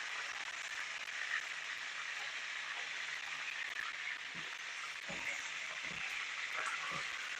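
Chicken thighs and drumsticks sizzling and crackling steadily as they pan-fry in oil, with a few soft knocks from about four seconds in.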